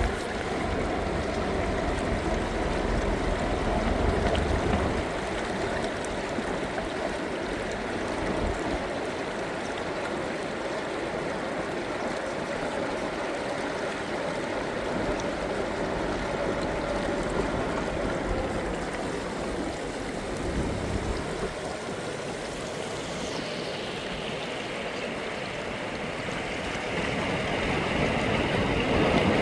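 Steady rushing of flowing river water, with a low rumble in the first few seconds.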